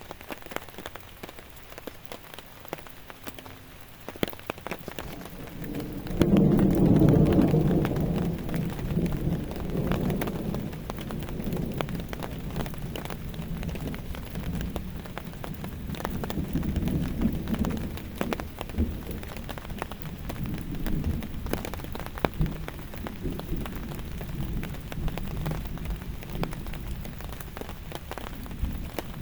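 Steady heavy rain with close drop hits throughout. About six seconds in, thunder breaks in with a deep rumble, loudest for a couple of seconds, then keeps rolling more softly in swells.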